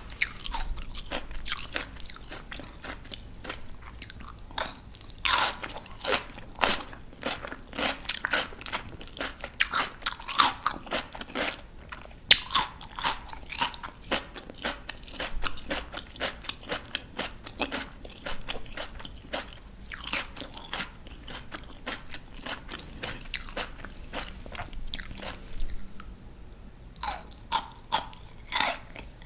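Crisp raw vegetables being bitten and chewed close to the microphone: a steady run of wet crunches, with louder bites now and then and one sharp snap about twelve seconds in.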